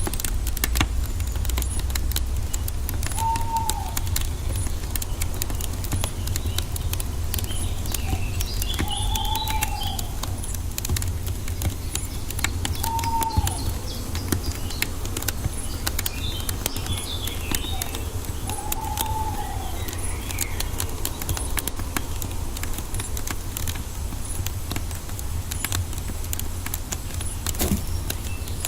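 Wood fire crackling continuously over a steady low rumble of the flames, with forest birds calling: a clear whistled note that rises and falls, heard four times, and scattered higher chirps.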